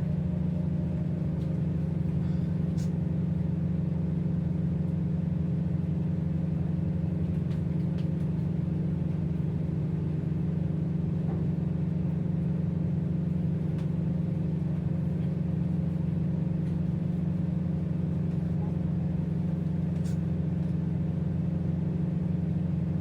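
A tugboat's diesel engines running steadily, a constant low hum that holds the same pitch with no revving.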